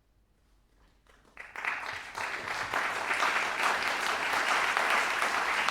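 Audience applause: a short hush, then clapping breaks out about a second in and quickly swells to steady, full applause.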